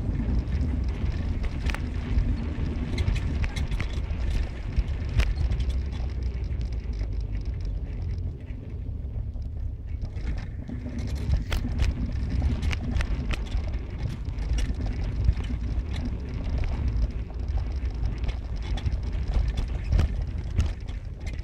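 Ride in a moving vehicle: a steady low rumble of engine and road noise, with frequent short knocks and rattles from bumps.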